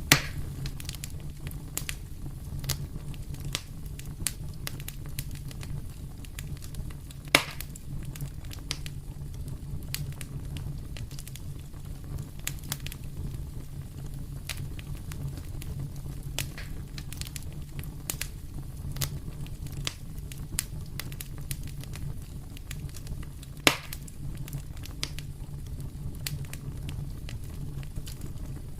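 Wood fire crackling in a fireplace: frequent small snaps and ticks over a steady low rumble of the flames, with three louder pops, right at the start, about seven seconds in and about 24 seconds in.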